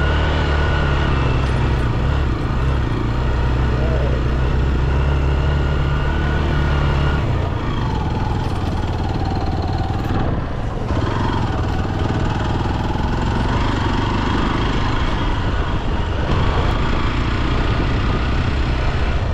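Motorcycle engine running steadily during an off-road ride. Its strong low hum changes about seven seconds in.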